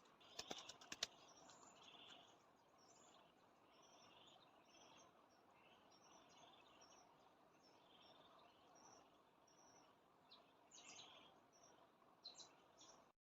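Faint jungle ambience with small birds chirping, short high calls repeating over a low hiss. There are a few sharp clicks about half a second to a second in.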